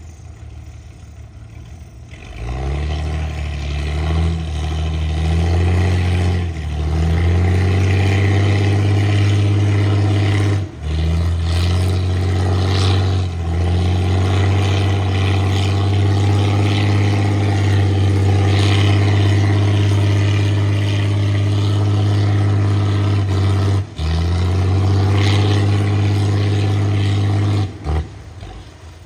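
Engine of a sludge-suction boat working a shrimp pond: it comes up about two seconds in and runs steadily with a strong low hum. It dips sharply for an instant three times and falls away near the end.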